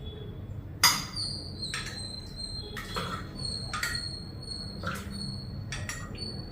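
A ladle clinking against a cup while coffee is ladled out: about six sharp clinks, roughly one a second, each with a short high ring.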